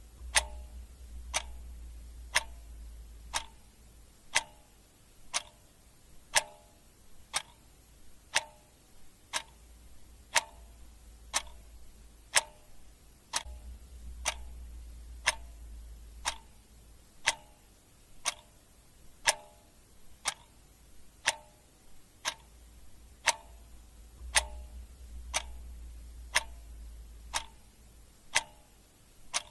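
Clock ticking steadily, one sharp tick about every second. A faint low hum swells and fades a few times underneath.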